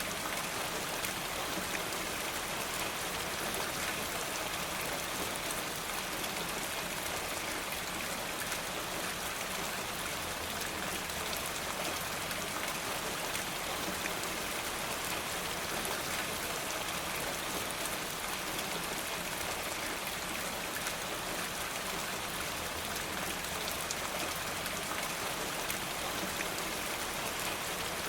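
Steady rain falling, an even hiss dotted with many fine drop ticks, with no let-up or change.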